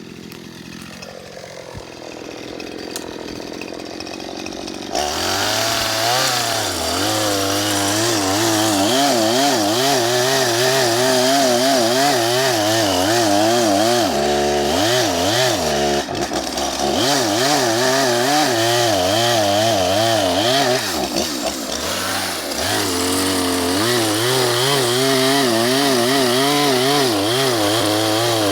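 Two-stroke chainsaw running, quieter for the first few seconds, then loud from about five seconds in as it cuts through a log, its engine pitch wavering under load. The engine note drops and shifts briefly around the middle and again past twenty seconds before the cut goes on.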